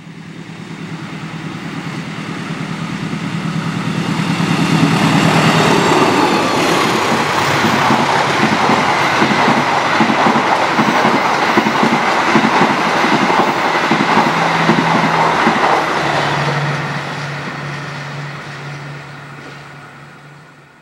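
CC 206 diesel-electric locomotive approaching and passing at speed with a passenger train. Its engine hum builds over the first few seconds, then the coaches' wheels clatter over the rail joints in a fast clickety-clack. The sound fades away near the end.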